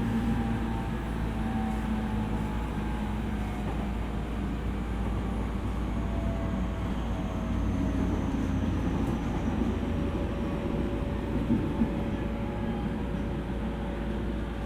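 Running sound inside an E231-series electric train: a steady rumble of wheels on rail with faint motor whine tones that drift slowly in pitch.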